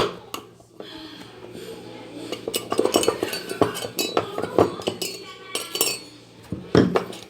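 Repeated light metallic clinks and clicks of small parts and tools being handled, in irregular strokes with a louder knock near the start and another near the end.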